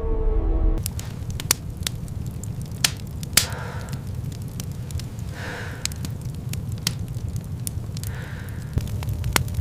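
A wailing tone, falling slightly, cuts off under a second in. After it come irregular sharp crackles and pops over a low steady rumble, with a few soft hissing puffs.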